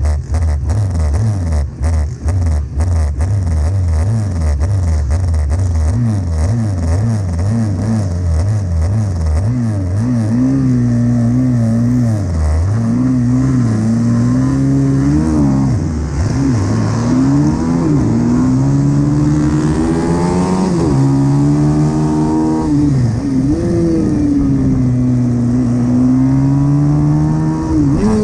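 Pit bike engines racing: for the first ten seconds or so the engine note is choppy and blipping, with a few sharp clicks early on, then one engine's pitch climbs and drops again and again as the bike accelerates, shifts and slows for corners.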